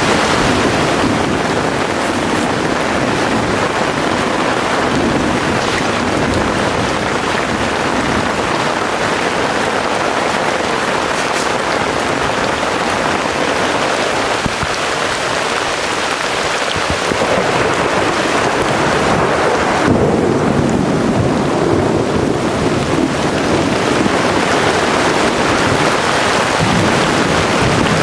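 Heavy rain pouring steadily in a thunderstorm, with thunder rumbling.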